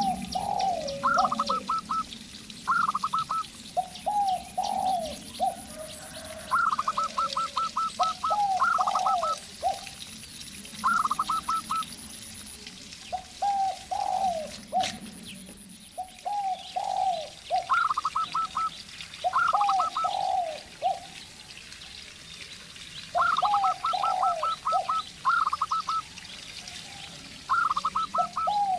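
A zebra dove and a spotted dove calling back and forth: quick runs of short, higher cooing notes alternate with lower, falling coos, phrase after phrase.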